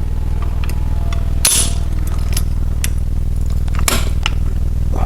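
Metal clinks and clicks of tools on a Chevy 350 small-block as the engine is turned over a quarter turn by hand while setting the pushrods and rockers. Two sharper clinks come about a second and a half in and near four seconds, over a steady low hum.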